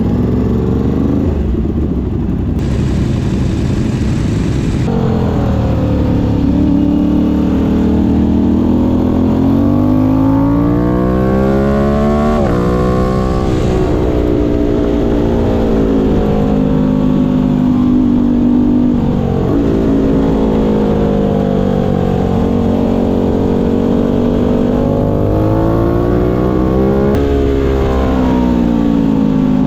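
Aprilia Tuono 660 Factory's parallel-twin engine at high revs on track, its pitch climbing and falling several times as the bike accelerates and slows, over a steady low rush of wind.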